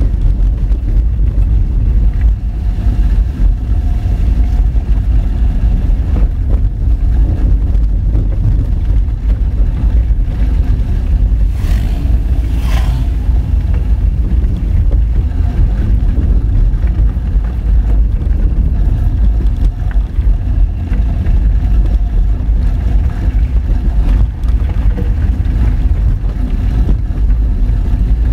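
Honda Fit driving over a rough gravel road, heard from a mounted action camera: a steady, loud low rumble of engine, tyres on loose stones and body shake. About halfway through comes a brief higher scraping hiss lasting about a second.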